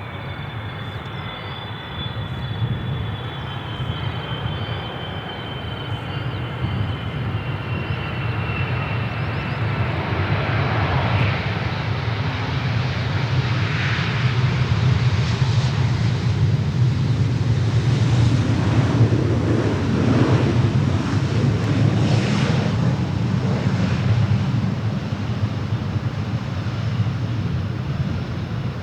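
Jet airliner's engines passing close by: a broad engine noise builds to its loudest about two-thirds of the way through, then slowly eases. A faint high whine slides slowly downward at the start.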